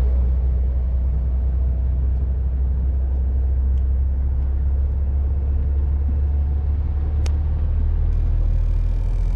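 Steady low engine rumble of a MAN TGX semi truck on the move.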